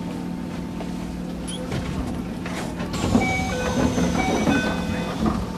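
Interior running noise of a Keisei 3000 series electric train, a steady hum under rail noise. From about three seconds in it grows louder and rougher, and several high steady tones join it, changing pitch in steps.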